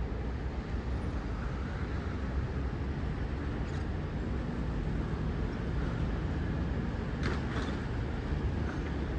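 Steady low rumble of city street traffic, with a brief louder hiss about seven seconds in.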